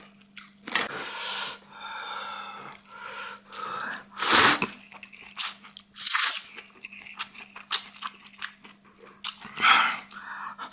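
A person eating close to the microphone: chewing and slurping noodles, with several loud sharp bursts of sucking sound. A faint steady hum runs underneath.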